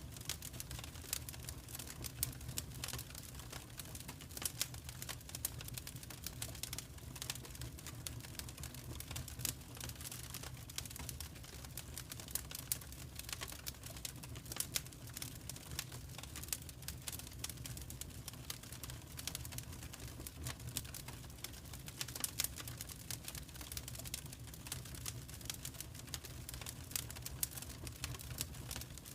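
Wood fire crackling in a fireplace: a constant scatter of small sharp crackles and louder pops over a low steady rumble of the burning.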